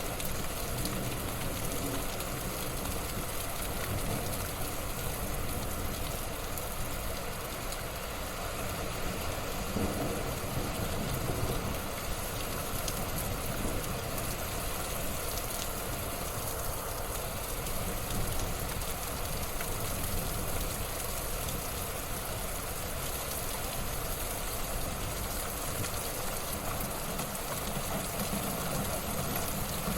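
Wood fire burning in a fireplace: a steady hiss of flames with scattered faint crackles.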